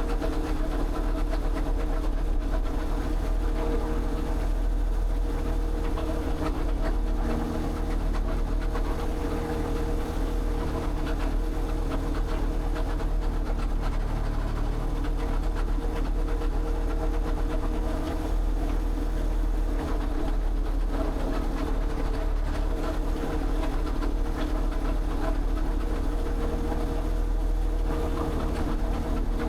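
An engine or motor running at a steady, even speed, a low continuous drone with no breaks or changes.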